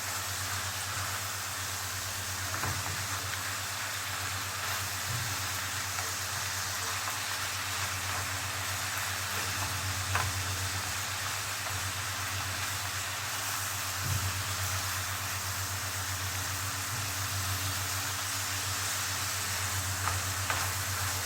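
Mixed seafood sizzling steadily as it fries in oil in a pan, with a few light knocks scattered through.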